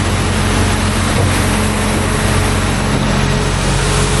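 Engine running steadily at a constant speed, a continuous low drone with a broad noise over it.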